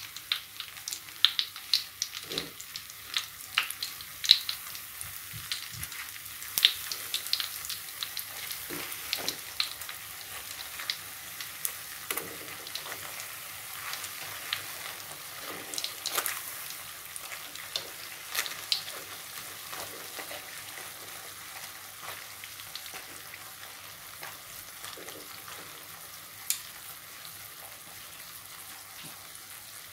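Cassava chips (discs of boiled cassava and tapioca dough) frying in shallow oil in a wok over a low flame: a steady sizzle with frequent sharp crackles and pops, which thin out over the second half.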